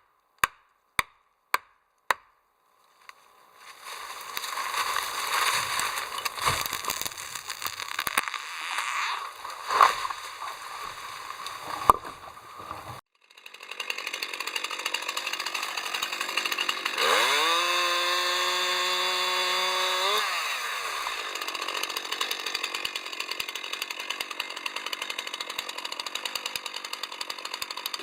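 A chainsaw running while cutting oak. After a brief cut it starts again, and in the middle it revs up quickly to full speed, holds for about three seconds, then drops back. It opens with a few evenly spaced sharp knocks, about two a second.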